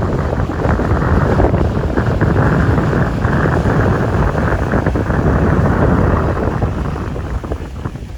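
Loud wind buffeting the microphone, a steady rough rumble that eases off somewhat near the end.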